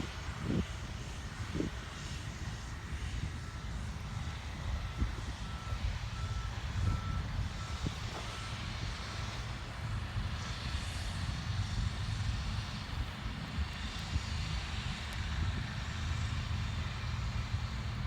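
Large tractor's engine running steadily while working the field, with a warning beeper giving a row of short, evenly spaced beeps from about three to eleven seconds in.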